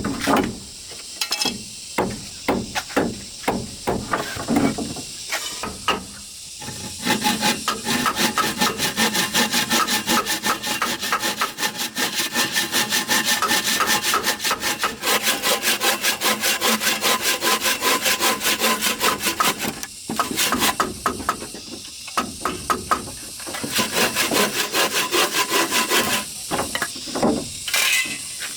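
Wood being worked by hand with rapid back-and-forth scraping strokes, in two long spells. Separate knocks come first.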